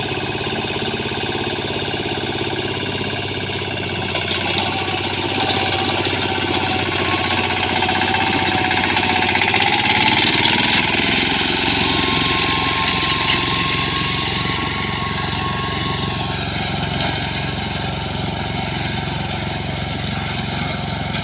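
Wheat reaper-binder running steadily in the field, its engine going along with the cutting mechanism; about halfway through the engine note deepens and grows a little louder.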